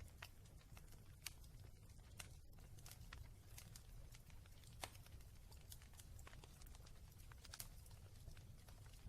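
Wood fire crackling: faint, irregular pops and snaps over a low steady rumble.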